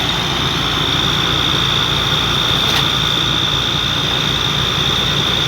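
Heavy earth-moving machine's diesel engine running steadily, with a loud, steady high-pitched whine over its low rumble.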